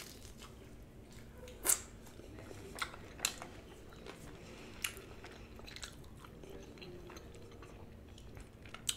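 Close-up eating of fried chicken wings dipped in ranch dressing: biting and chewing, with scattered short wet mouth clicks, the loudest about a second and a half in.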